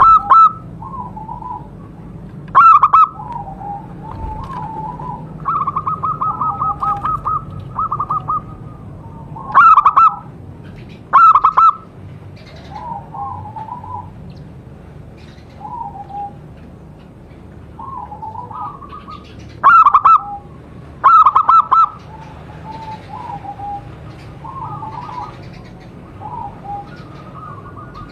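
Zebra doves (perkutut) cooing: a loud bird repeats short phrases of rapid, pulsed coo notes every few seconds, with a longer run of them a little over five seconds in, and fainter, lower coos from another bird fill the gaps between.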